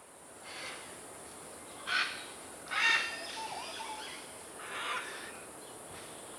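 Great green macaw giving harsh, raspy squawks: four calls a second or so apart, the loudest about three seconds in.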